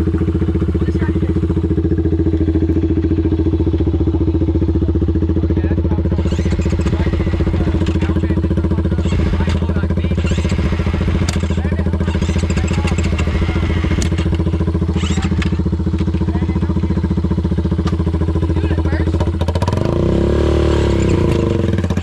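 Dirt bike engine running at a steady speed, its pitch rising and falling near the end.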